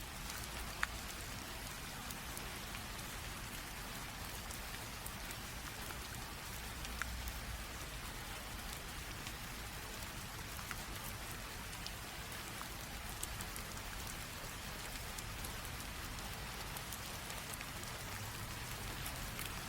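Light rain drizzle falling steadily, an even hiss of rain on surfaces with scattered sharp ticks of single drops landing close by, the clearest about a second in.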